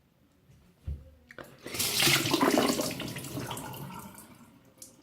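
A thud, then a rush of water pouring and splashing that comes in suddenly, is loudest for about a second, and tapers away over the next two seconds.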